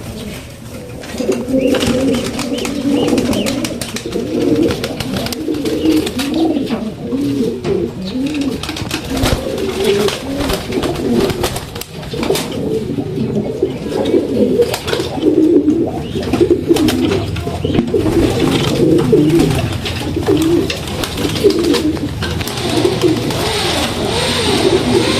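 Several pigeons cooing over one another without a break, with scattered sharp clicks among the coos.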